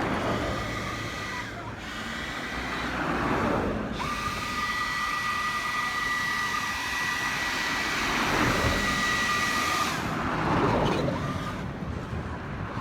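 Power blower clearing heavy dirt and gravel out of a dug-out road patch: a rushing blast of air over a steady high whine. The whine drops out about a second and a half in, comes back at about four seconds and stops at about ten.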